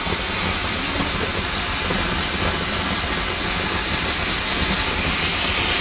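Garden firework fountains spraying sparks with a steady hiss.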